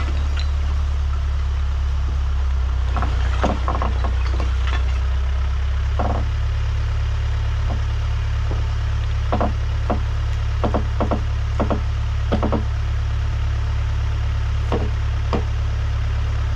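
A diesel engine running steadily at low speed, with scattered short clunks and knocks over it, several close together about nine to thirteen seconds in.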